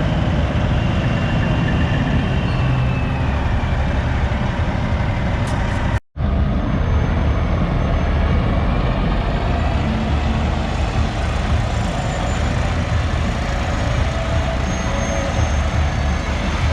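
Semi-truck diesel engines running as the trucks roll past. The sound cuts out completely for a split second about six seconds in, then carries on.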